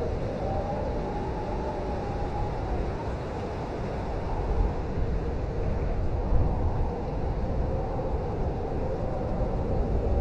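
Blizzard wind blowing steadily: a deep rumble with a faint whistle over it that slowly rises and falls in pitch.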